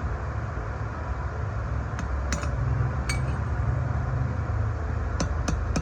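A few light metal clinks, then near the end a hammer begins tapping a punch in quick, even strokes, driving a wheel-bearing race into a truck's rear hub. A steady low rumble runs underneath.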